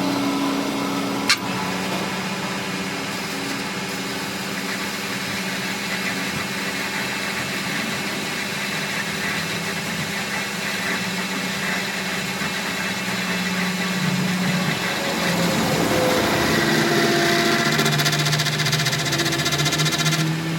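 A workshop machine running steadily with a hum and a dense hiss, one sharp click about a second in. Near the end the pitch shifts and it gets slightly louder.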